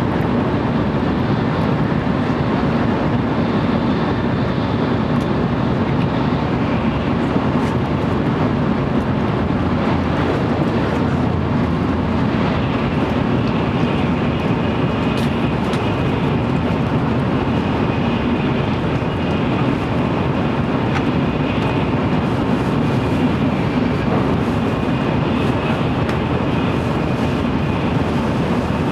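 Steady running noise of an N700-series Shinkansen at speed, heard inside a motor car: a dense, even rumble of wheels and rushing air, with a faint high whine coming in about twelve seconds in.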